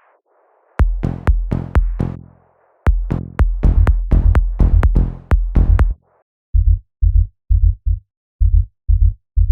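Electronic dance-track drums and bass playing back from music production software: a punchy kick and deep bass pattern with sharp clicky attacks that cuts off about six seconds in, followed by a sparser run of short, deep bass thumps, mostly in pairs.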